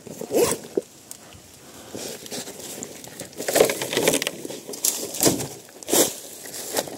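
Irregular crunching and rustling, as of footsteps through dry leaves and twigs, loudest about 3.5 to 4 seconds in and again near 5 and 6 seconds.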